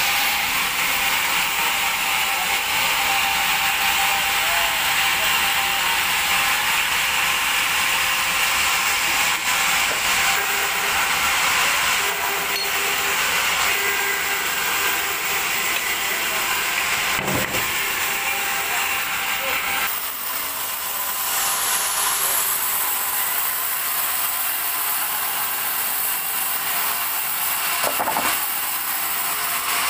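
Large band sawmill cutting a teak log into thick boards: a steady, high-pitched noise of the blade running through the wood, dipping briefly about twenty seconds in.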